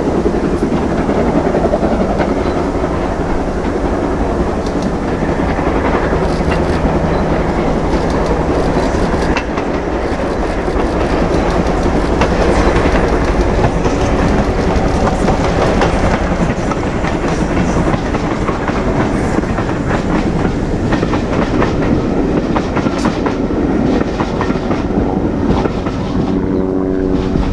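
Steam-hauled heritage train running past, its wheels clattering over the rail joints in a steady run of clicks over a continuous rumble.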